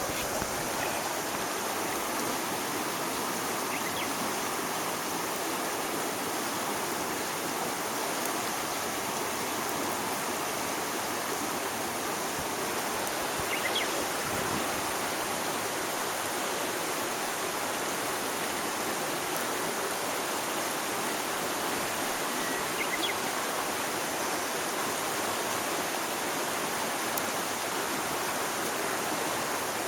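Steady rushing of flowing water, with a few faint short chirps about halfway through and again near the end.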